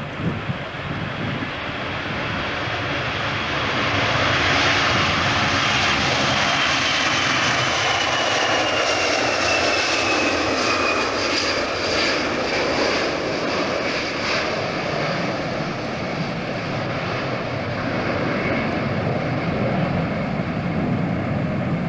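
Jet airliner passing close by: engine noise swells about four seconds in, with a high turbine whine falling in pitch as it goes past, then a long steady rumble.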